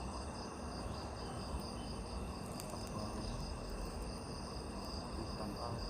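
A night insect chorus: several steady high-pitched trills at once, one of them pulsing rapidly, over a low rumble.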